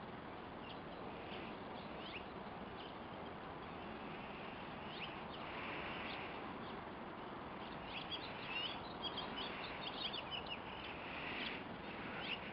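Small birds chirping in short calls over a steady hiss, the calls coming thickest about eight to ten seconds in.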